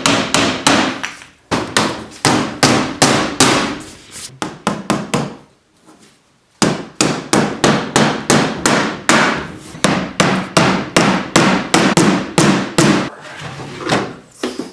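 A hammer striking wood in quick repeated blows, about three or four a second, knocking wooden blocks into place inside an old cabinet. The hammering pauses for about a second partway through, then resumes and stops near the end.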